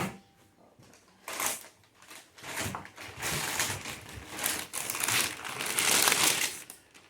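Packaging rustling and crinkling as a boxed framing nailer is unwrapped: a short rustle, then several seconds of uneven crinkling and crumpling.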